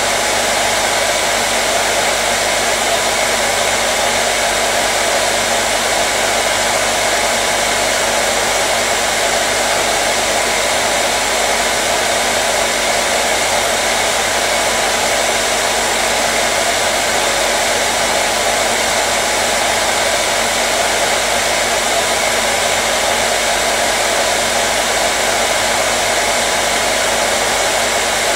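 Hair dryer running steadily: a loud, even rush of blown air with a faint constant motor hum, no change in speed or pitch.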